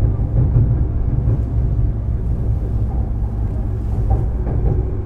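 Running sound heard inside a JR 205-series electric train's motor car, which has MT61 externally fanned traction motors: a steady low rumble of the car moving along the rails.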